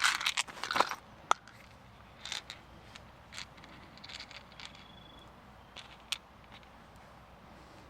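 Light crackling and rustling of dry leaves and twigs being handled or stepped on. There is a quick flurry of crackles in the first second, then scattered soft clicks and rustles.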